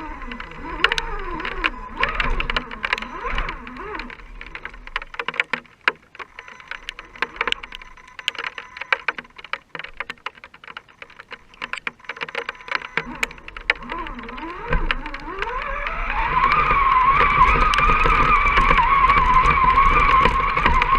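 Electric motor and gears of an RC scale crawler truck whining, the pitch rising and falling with the throttle, over many sharp clicks and ticks. About fifteen seconds in, the whine climbs to a higher pitch and holds there, louder, to the end.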